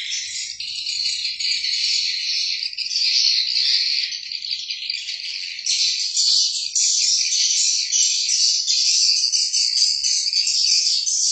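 Small birds chirping and trilling in a dense, unbroken high-pitched stream of rapid notes, growing fuller about six seconds in.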